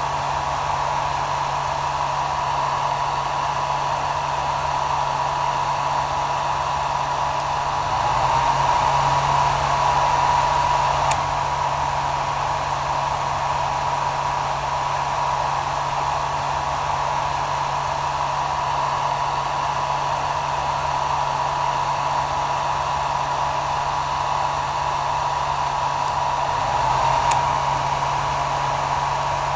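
Hair dryer running steadily, a constant rushing of air over a steady motor whine and low hum. It swells slightly louder twice, a few seconds in and near the end, each time with a faint tick.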